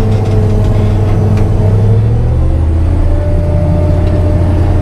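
Farm vehicle engine running steadily under load, its pitch dropping slightly about two seconds in.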